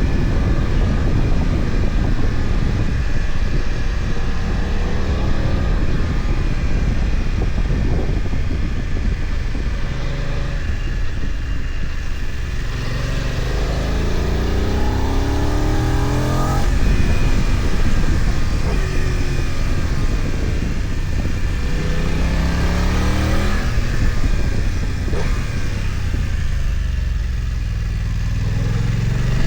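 BMW F900XR's 895 cc parallel-twin engine heard on board under a steady rush of wind noise. It pulls up through the revs in rising sweeps, once about halfway through, again a few seconds later and once more near the end, easing off in between.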